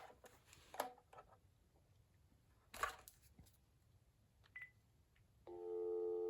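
Cordless phone handset buttons being pressed: soft clicks and a short high key beep, then about five and a half seconds in a steady dial tone comes on from the phone.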